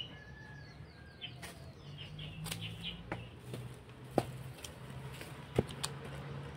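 Birds chirping repeatedly over a low steady hum, with two sharp clicks, about four and five and a half seconds in.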